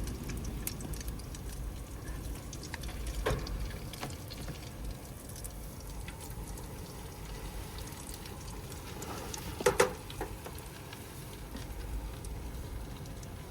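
Potato patties frying in a pan: a steady sizzle with scattered small pops, and a couple of sharper clicks a little under ten seconds in.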